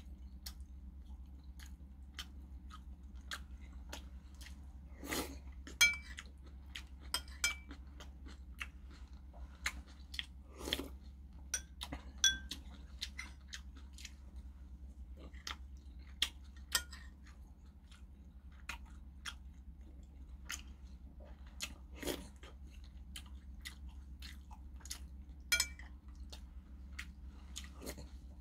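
Close-miked chewing and mouth sounds of a man eating saury kimchi stew with rice, with many short sharp clicks throughout, some of them a metal spoon tapping a ceramic rice bowl. A steady low hum runs underneath.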